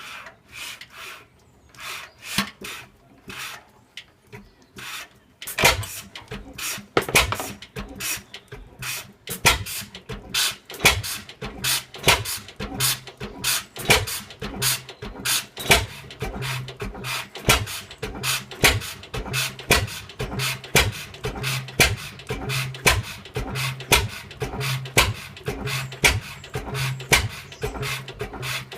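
1917 Fairbanks Morse Z type 6 hp stationary engine starting from cold: a few spaced, uneven beats, then about five seconds in it picks up into a steady, quick run of sharp beats.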